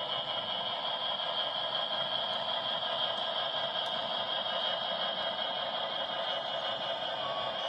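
HO scale model train running steadily, its diesel locomotive's sound decoder playing engine sound through a small speaker, mixed with the light rattle of wheels on the track. The sound carries almost no bass.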